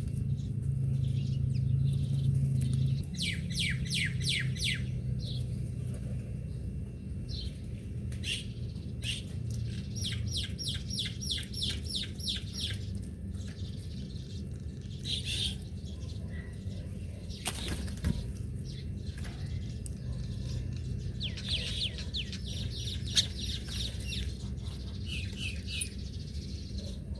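A small bird calling in several quick runs of rapidly repeated high chirps, about half a dozen to ten notes per run, over a steady low rumble.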